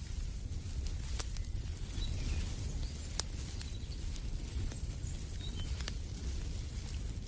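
Wood fire crackling in a fireplace: a low steady rumble with scattered sharp pops, a loud one about a second in and another about three seconds in. Faint bird chirps sound now and then.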